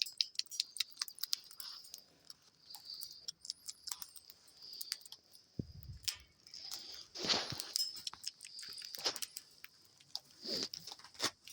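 Cockatiels pecking and cracking seeds from a treat with their beaks: irregular sharp clicks and crunches, with a few louder clusters of crunching.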